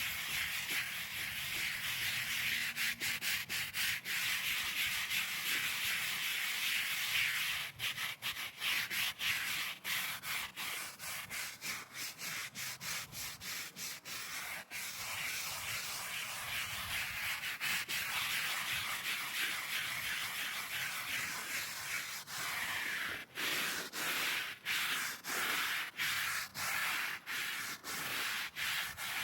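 Rhythmic hand scrubbing on a stone surface, in back-and-forth strokes about twice a second.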